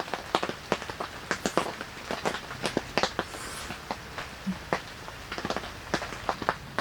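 Raindrops striking the fabric of a tent shelter: irregular sharp taps several times a second over a steady hiss of rain.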